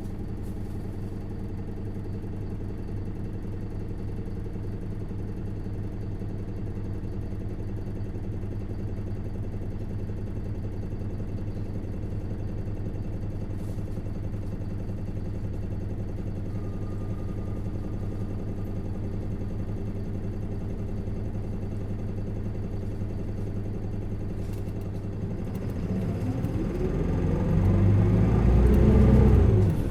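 Isuzu Erga LV290N1 bus's four-cylinder diesel idling steadily, heard from inside the bus. About four seconds before the end it pulls away, the engine note rising and growing louder until it drops off suddenly at the end, as at a gear change.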